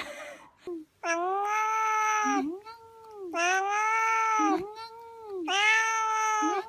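Domestic cat yowling: three long drawn-out yowls, each about a second long, with a softer, shorter call between each pair.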